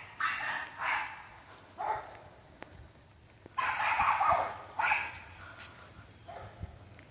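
A dog barking in a series of short barks, with a longer, louder run a little past halfway.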